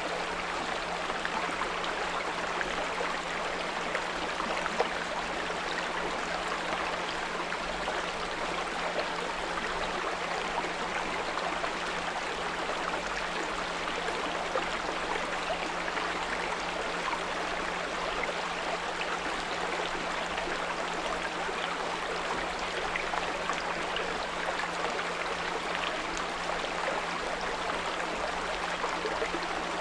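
Small brook babbling steadily over stones, with a steady low 174 Hz pure tone held under the water sound.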